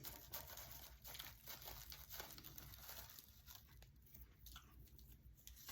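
Faint rustling and crinkling with soft scattered clicks, craft materials being handled and pressed into place.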